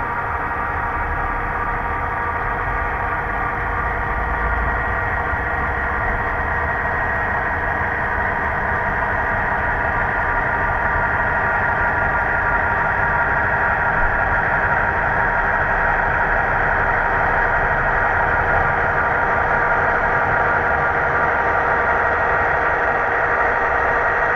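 HO-scale model of a 422 Class diesel locomotive on a DCC layout with sound, its diesel engine sound running steadily and slowly growing a little louder.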